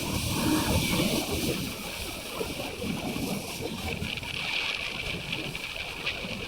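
Wind rushing over the microphone on a moving motorcycle, over the low rumble of the ride.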